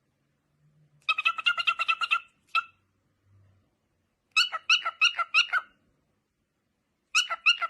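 A cat giving rapid strings of short, high-pitched calls on one steady pitch, in three bursts with pauses between.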